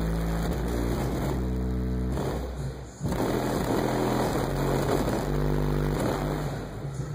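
Bass-heavy music played loud through a car audio system with four CT Sounds EXO 15-inch subwoofers, low notes held steady and changing every second or so. A noisy hiss joins over the bass from about three seconds in.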